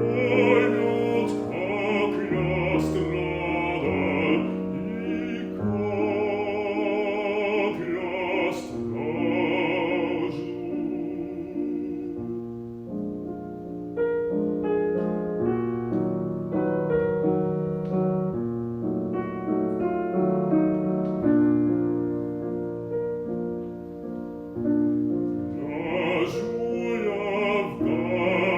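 Classical art song: a bass voice singing with vibrato over piano accompaniment. About twelve seconds in the voice stops for a piano passage, and it comes back near the end.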